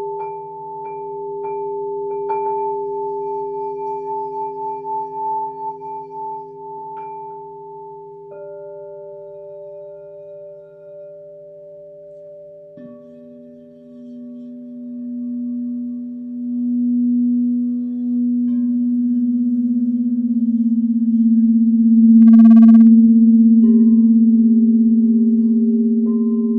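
Crystal singing bowls ringing in long, overlapping sustained tones. A new bowl comes in about eight seconds in, and a lower one about thirteen seconds in that swells louder. A short, bright struck note sounds about twenty-two seconds in.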